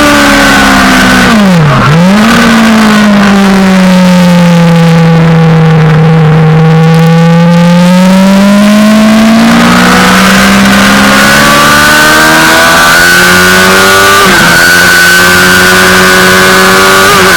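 Suzuki GSX-R600 inline-four sportbike engine heard onboard at track speed, with wind hiss. About two seconds in the revs dip sharply and recover as the rider downshifts; then the pitch climbs slowly under acceleration, dropping briefly at upshifts near ten seconds, fourteen seconds and the very end.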